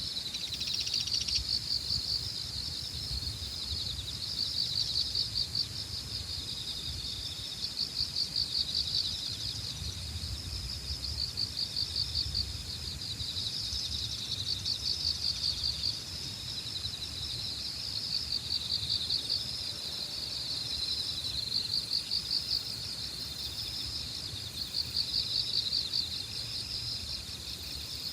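A chorus of autumn insects chirping in a steady high band, with louder pulsing trills swelling every couple of seconds, over a low wind rumble on the microphone.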